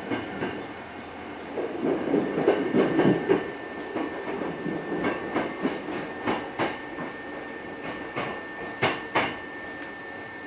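Hankyu 6300 series electric train running, heard from inside the car: a rumble with a run of wheel clacks over rail joints, loudest about two to three seconds in, then lighter, irregular clacks.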